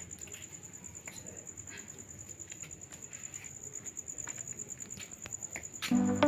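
A faint, steady high-pitched trill with scattered light ticks. Music comes in near the end.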